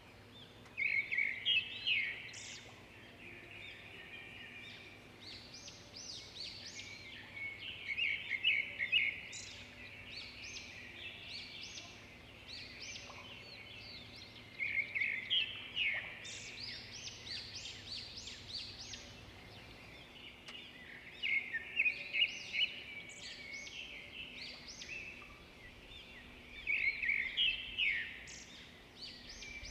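Zebra finches calling: loud bursts of short, rapid chirps about every six seconds, with quieter chirps in between.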